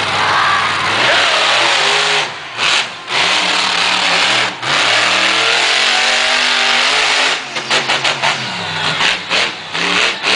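Monster truck engine revving hard through a run over jumps, the pitch climbing and falling with the throttle. It is cut by several sudden short breaks, coming in a rapid stutter near the end.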